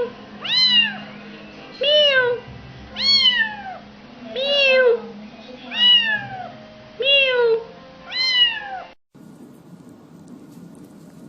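A cat meowing over and over, about one meow every second and a quarter, each call rising then falling in pitch. The meowing stops abruptly about nine seconds in.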